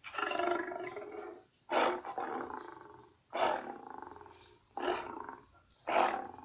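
Lion roaring: a series of about five strong roars, each starting suddenly and fading away.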